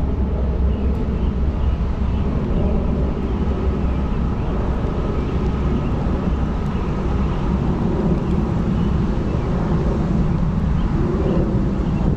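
Steady low rumble of a passing vehicle, running throughout with no clear breaks.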